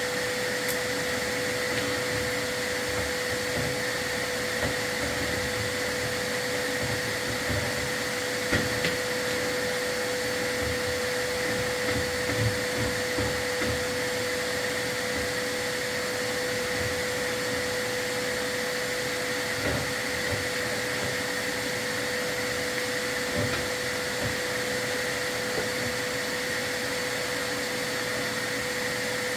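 Vacuum motor running steadily with a constant hum, with a few light knocks now and then, typical of a sweep's dust-control vacuum drawing soot from a fireplace during chimney cleaning.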